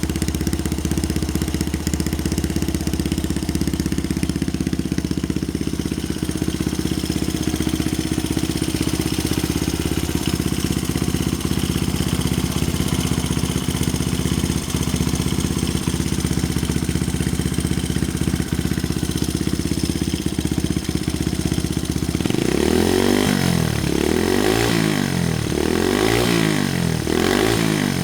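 Honda Ape100's single-cylinder four-stroke engine idling steadily through an OVER aftermarket muffler, then revved in about four quick throttle blips near the end.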